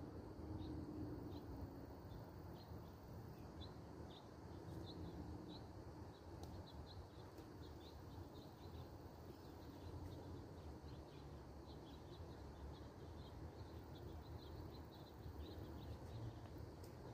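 Small birds chirping faintly outdoors: many short high chirps, several a second and irregular, over a low background rumble.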